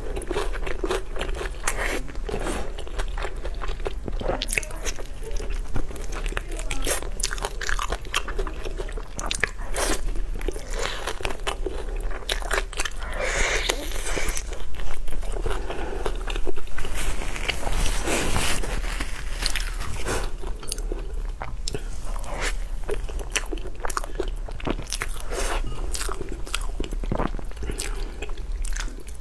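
Close-miked biting and chewing of chicken held in the hand, a dense run of small sharp mouth clicks and wet chewing sounds.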